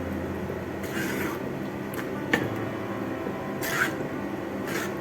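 Spoon stirring yogurt pachadi in a pan: a few short scrapes and one sharp clink, over a steady low hum.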